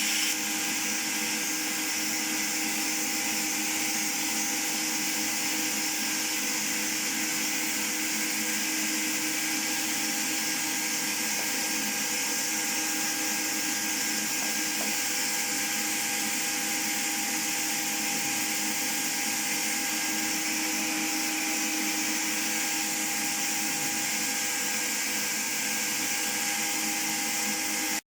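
Old Zelmer vacuum cleaner running steadily and blowing air through a paint-spray attachment: a constant motor whine over a rush of air. It stops abruptly near the end.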